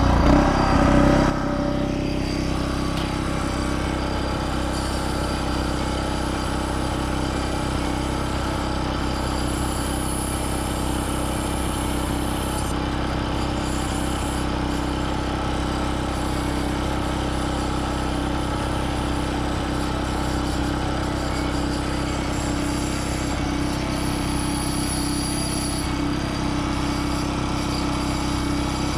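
Small engine of a Takakita SE511 walk-behind mini roll baler. It runs loud for the first second or so, then settles to a steady, even run.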